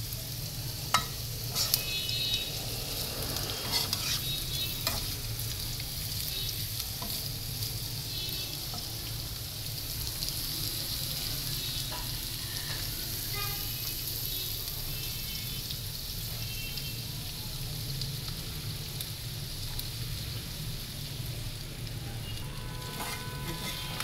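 Hot oil sizzling steadily as sliced bitter gourd and onions fry in pans on a gas stove. A few sharp knocks of utensils against the pan come in the first few seconds.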